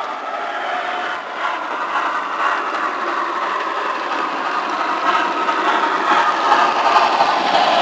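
HO scale model train running on the layout: a steady mechanical rattle and clatter that grows a little louder toward the end.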